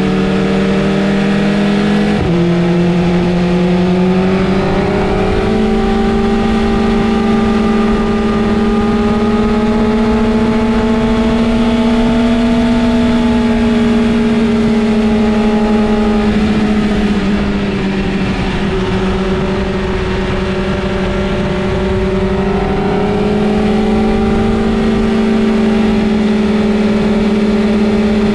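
Inline-four sport motorcycle engine running steadily at high revs, its pitch dropping about two seconds in and again past the middle, then climbing back each time.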